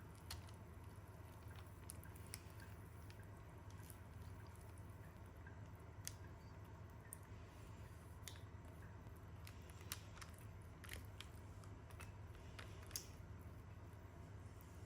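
Near silence: steady low room hum with faint, scattered small clicks and taps.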